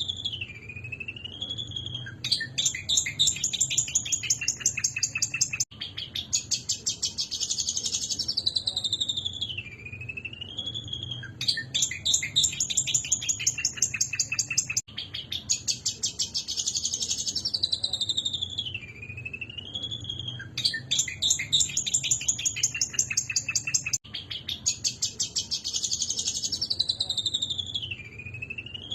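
Long-tailed shrike (cendet) singing an excited, agitated song. Fast, dense chattering trills alternate with whistled notes that slide down and then back up. The same phrase comes back about every nine seconds, as in a repeated song-training master track.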